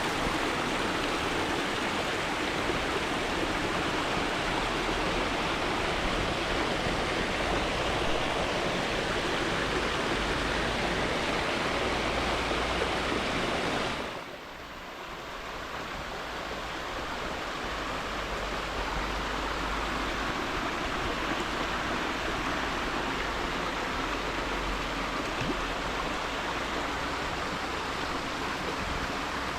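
Mountain stream rushing steadily over rocks. About halfway through, the sound drops abruptly, then swells back over a few seconds.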